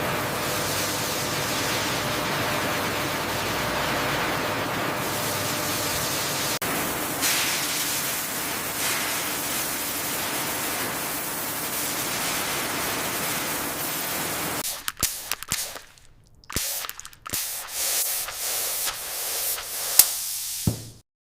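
Water spraying in a coconut washing line, a steady hiss. About 15 seconds in it gives way to irregular sharp clicks and knocks.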